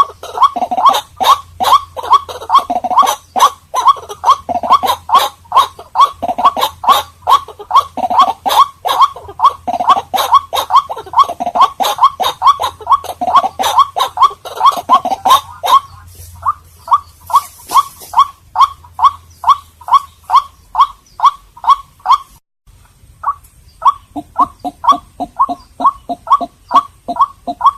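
White-breasted waterhen calling: a loud, unbroken run of repeated call notes, about three a second. The calls break off briefly about two-thirds of the way through, then go on at the same pace.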